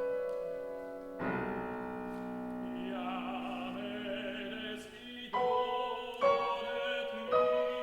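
Operatic tenor singing a classical song with vibrato over grand piano accompaniment, the piano striking fresh chords several times.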